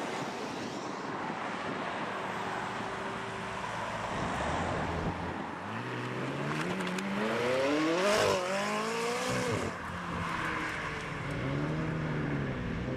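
A car engine revving hard as it pulls away: its pitch climbs for a few seconds to the loudest point about eight seconds in, then falls. A shorter rev rises and falls near the end.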